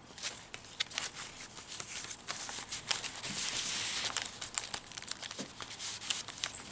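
Paper rustling and crinkling in quick irregular crackles as the pages, paper pockets and tags of a handmade junk journal are handled and turned.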